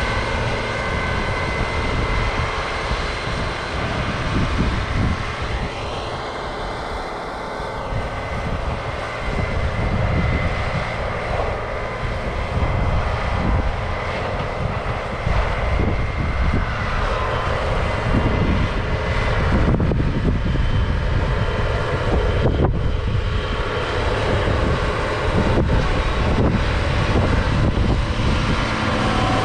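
Heavy diesel farm machinery running steadily, with a brief rising-and-falling whine about six seconds in.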